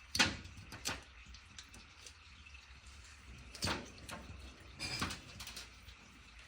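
A handful of light clicks and knocks, metal tools and engine parts being handled during a car engine teardown, over a faint steady hum.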